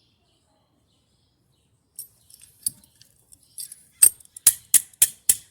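Light hammer taps seating a new motor-to-transmission drive coupling on a top-load washer, about four sharp taps a second from around four seconds in, after a couple of seconds of faint clicks.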